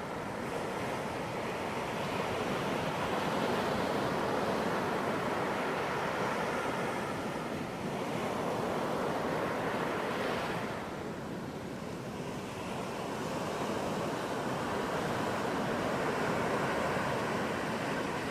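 Ocean waves breaking and washing on a beach: a continuous surf hiss that swells and eases, with a dip a little before halfway and a wave surging in about ten seconds in.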